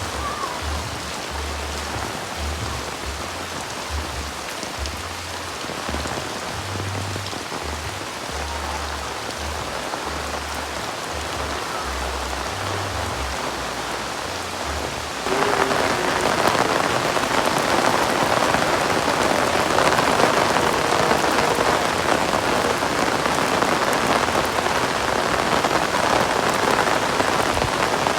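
Heavy rain pouring down, a steady dense hiss of drops on surfaces. About halfway through it suddenly becomes louder.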